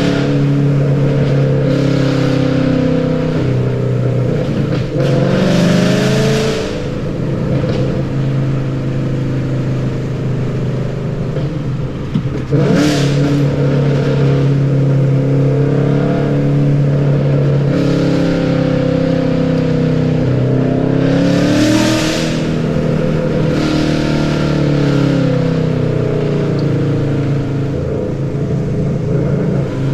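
2013 Ford Mustang GT's 5.0 V8 running through long-tube headers, a high-flow X-pipe and Roush over-axle pipes and mufflers, heard from inside the car while it is driven. The revs rise and fall several times as it pulls through the gears.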